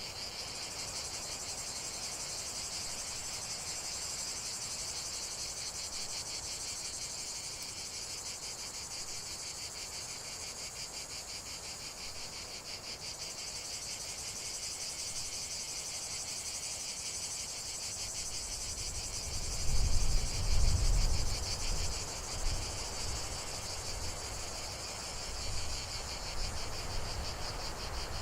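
Dense, steady chorus of chirring insects, finely pulsed and high-pitched. From about two-thirds of the way through, a low rumble with a few louder bumps comes in under it.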